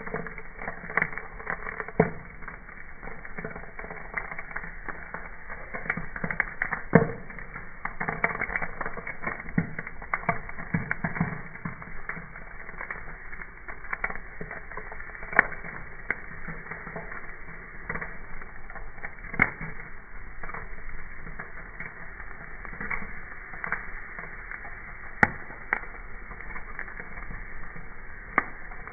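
Wood campfire burning, crackling steadily, with irregular sharp pops, a few of them markedly louder.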